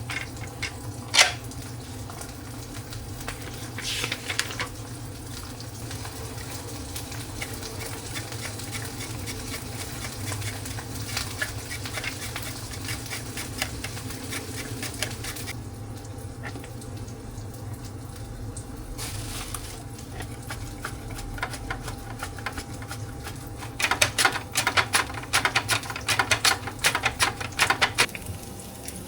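Kitchen food-prep sounds: a utensil clicking and scraping as something is stirred or mixed, over a steady low hum. A fast run of clicks comes near the end.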